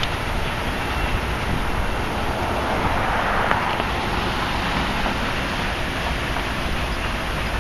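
Steady rumble of a passenger train moving along the tracks, mixed with wind on the microphone.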